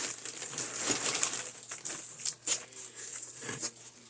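Paper wrapping crinkling and rustling in quick, irregular crackles as it is pulled off stones.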